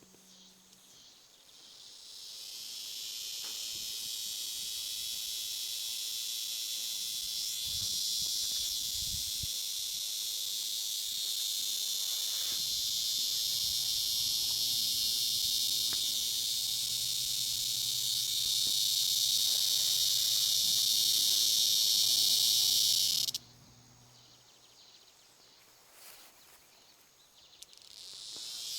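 Cicada calling: a steady, high, hissing buzz that swells in over the first few seconds and slowly grows louder. It cuts off abruptly about 23 seconds in, then starts up again just before the end.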